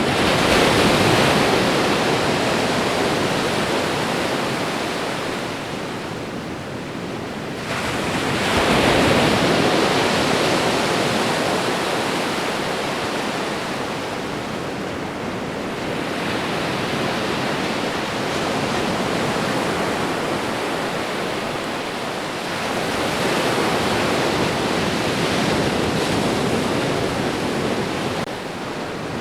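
Ocean waves breaking and washing on the shore: a steady rush of surf that swells roughly every seven to eight seconds. The strongest surges come near the start and about eight seconds in, with gentler ones after.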